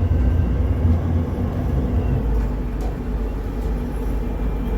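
A boat's engine running steadily: a continuous low rumble with a steady hum over it.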